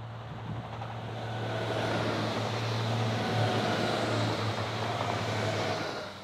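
Bombardier AGC regional multiple unit passing at speed: the rush of wheels on rail and air swells to a peak a few seconds in, carrying faint whining tones, and falls away just before the end. A steady low hum lies underneath throughout.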